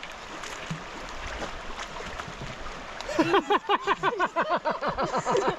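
River water sloshing and splashing around a hiker wading through a deep crossing. About three seconds in, a fast run of short voiced sounds starts, about five a second, and carries on to the end.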